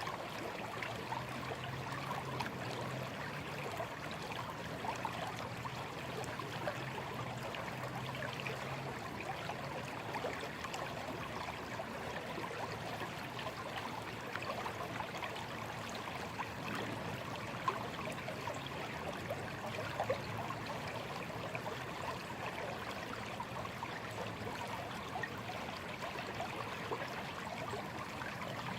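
Small stream flowing steadily, with a continuous trickling and babbling of water.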